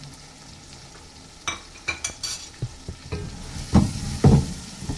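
Chicken frying in ghee in an aluminium pot: a steady sizzle, a few sharp clicks a little under halfway through, then a wooden spoon stirring the pieces in strokes as the sizzle grows louder near the end.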